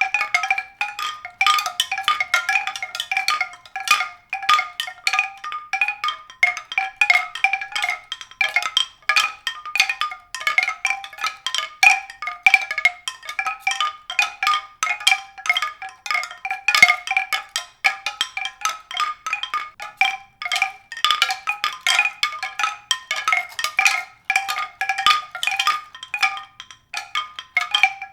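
Mallet percussion music: a steady, dense stream of quick struck notes in a high register.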